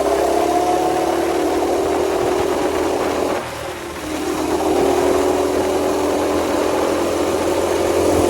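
Small minibike engine running steadily, dropping off briefly about three and a half seconds in and then picking back up.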